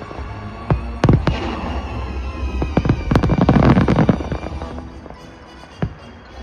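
Aerial fireworks going off: a string of sharp bangs with dense crackling about three to four seconds in, thinning out near the end, with show music playing underneath.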